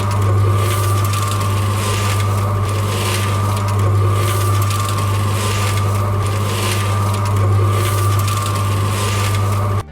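A small motorised tool running with a steady hum while a rough scraping noise swells and fades about every second and a half; it stops abruptly near the end.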